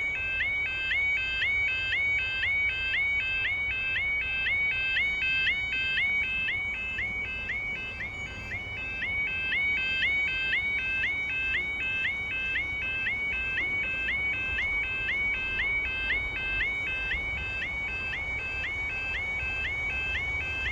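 Level crossing warning alarm sounding: an electronic yodel of rapidly repeating rising tones, steady in rate and level.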